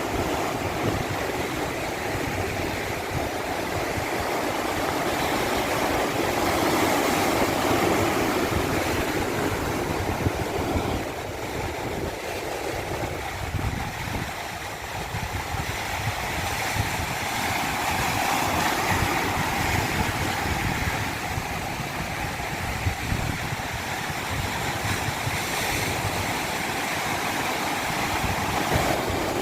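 Rushing water as a steady wash of noise, slowly swelling and easing every several seconds.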